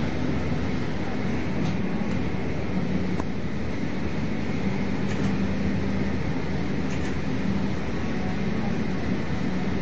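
A new Škoda passenger train running at speed, heard from inside the carriage: a steady rumble of wheels and running gear with a low hum that rises and falls slightly.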